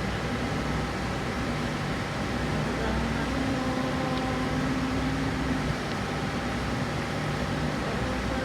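A steady low mechanical hum with a few held tones, like a running fan or air-conditioning unit.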